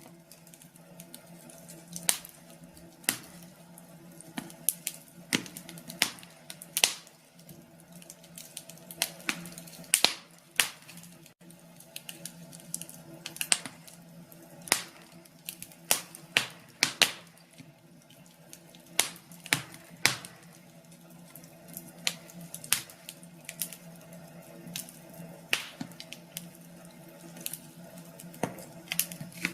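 Wood fire crackling, with sharp irregular pops and snaps of burning wood, sometimes several in quick succession.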